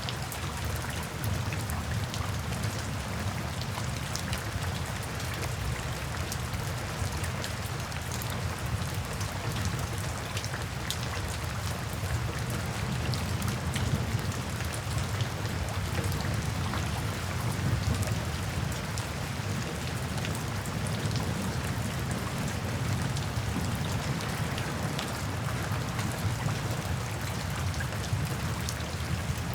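Steady rainfall, with individual drops pattering against a constant hiss of rain and a low rumble underneath, without a distinct thunderclap.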